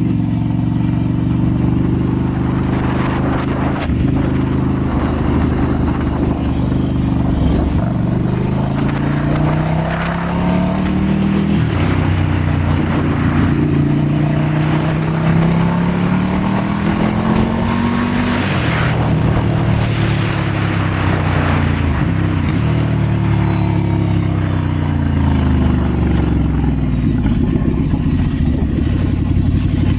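Ducati Scrambler's air-cooled L-twin engine under way, revs repeatedly climbing and then dropping sharply as the throttle is opened and closed.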